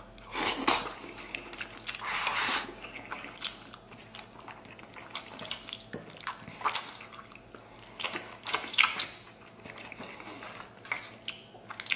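Close-miked eating sounds: a person biting and chewing red-braised pork belly, with irregular mouth clicks and smacks.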